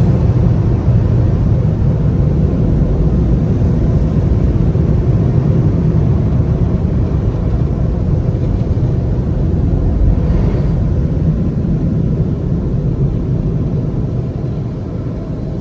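Steady low rumble of automatic tunnel car wash machinery heard from inside the car, easing off slightly near the end.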